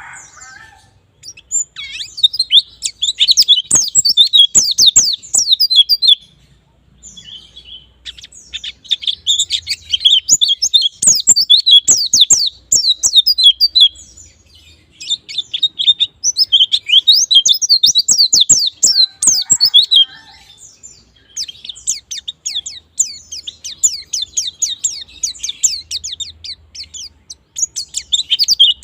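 Pleci (white-eye) singing long, fast phrases of high, rapid, down-slurred chirping notes, each run lasting several seconds with brief pauses between.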